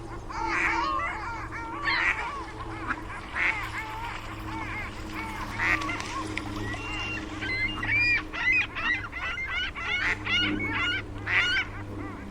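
A flock of geese honking, many short calls overlapping, coming thicker and faster in the second half, over a steady low hum.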